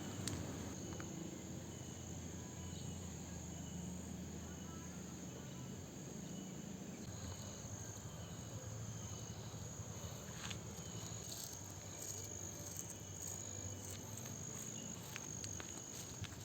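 Insects chirping in a steady, high, continuous trill over a low background hum, with a few faint clicks.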